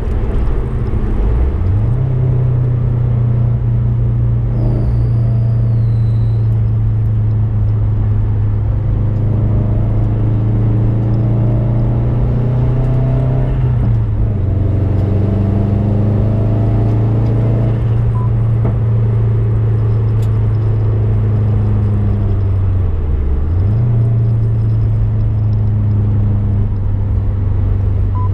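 A Subaru Impreza's flat-four engine running hard on track, heard from inside the car. The engine note holds steady for long stretches. It dips and climbs again in the first two seconds, drops a step about halfway through, and dips briefly and recovers near the end.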